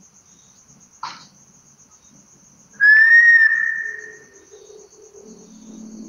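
A single high whistled note about three seconds in, rising slightly and then held for about a second and a half before fading, with a short click shortly before it. Crickets chirp faintly throughout.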